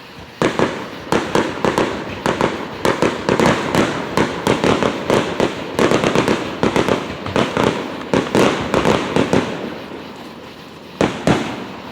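Aerial fireworks going off in a rapid barrage of sharp bangs, dozens of reports in quick succession for about nine seconds, then two more bangs near the end.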